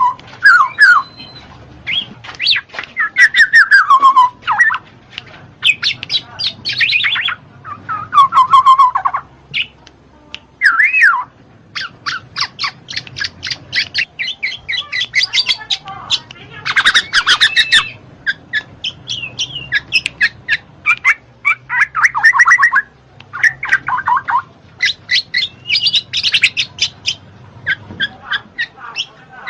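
Black-naped oriole (kepodang) calling in a busy run of phrases. Falling whistled notes alternate with harsh squawky calls and fast trains of repeated notes, with short pauses between bursts.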